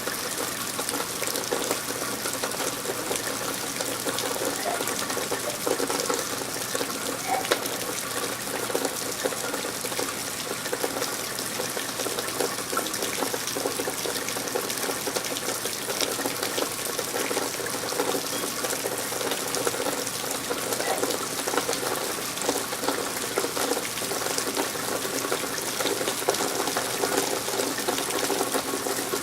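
Steady rain falling: an even wash of noise dotted with many small drop ticks.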